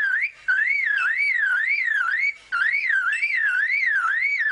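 Superb lyrebird mimicking a car alarm: a loud warbling whistle sweeping up and down about three times a second, in phrases broken by two brief pauses.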